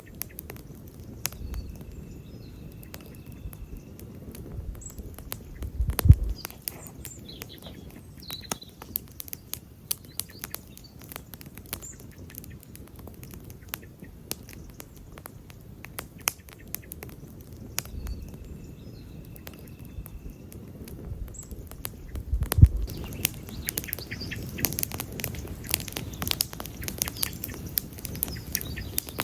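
Wood campfire burning, crackling steadily over a low rumble. Two loud pops stand out, about six seconds in and again about twenty-two seconds in, and the crackling gets busier near the end.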